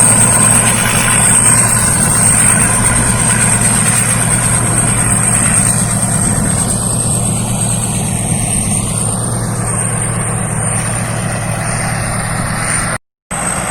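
Rice combine harvester running steadily: an engine hum with a constant high whine from the machinery. The sound drops out for a moment near the end.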